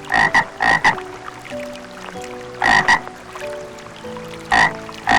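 A frog croaking in short, loud, raspy croaks. They come in quick pairs near the start, then singly every couple of seconds, over soft background music with held notes.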